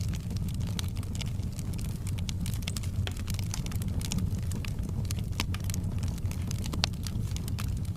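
Wood fire in a fireplace crackling, with frequent irregular pops and snaps over a steady low rumble.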